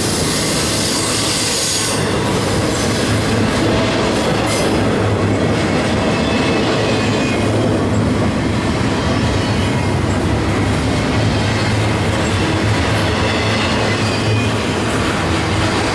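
Freight train rolling past, the cars running steadily over the rails. The sound is loud and continuous, with a brighter, higher hiss in the first two seconds.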